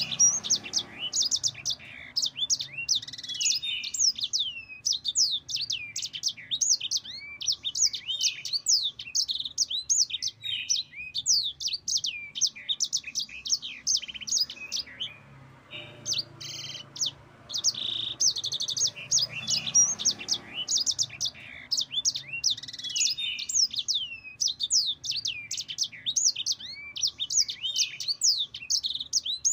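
Yellow-fronted canary (Mozambique canary) singing a long, fast rolling song of quick, high, sweeping notes, broken by a short pause about halfway through.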